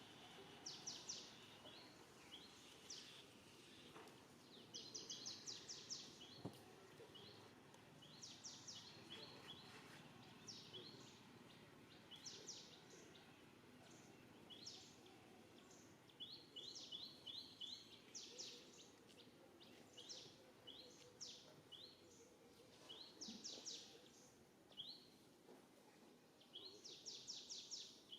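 Faint birds chirping: quick runs of short, high notes that repeat every second or two, over low outdoor background noise.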